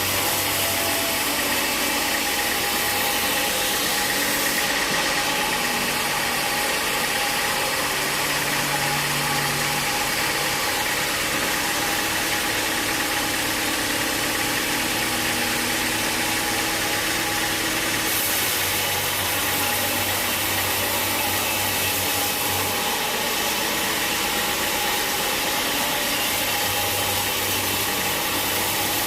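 Sawmill machinery running steadily, an engine-driven mill giving a continuous loud mechanical drone with a constant hum.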